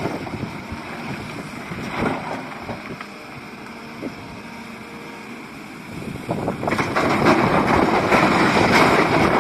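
SDLG excavator's diesel engine and hydraulics working, with a knock about two seconds in and the engine getting louder from about two-thirds of the way through as it takes on load.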